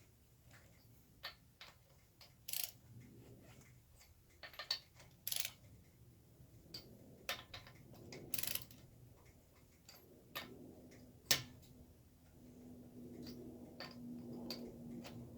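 Irregular light clicks and knocks of tools and hardware being handled, a few of them sharper, with a faint steady hum coming in about ten seconds in.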